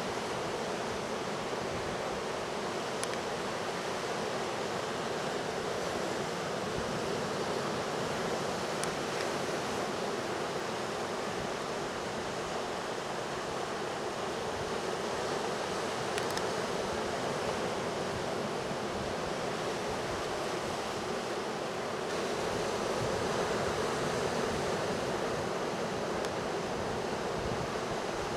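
Ocean surf and wind making a steady rushing wash of noise, swelling slightly about three-quarters of the way through.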